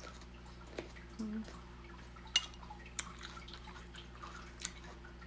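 Close-up wet chewing of a juicy fruit salad of mango, cucumber and tomato, with a few sharp clicks, the loudest about two and a half seconds in. A short low hummed 'mm' just over a second in, over a steady faint electrical hum.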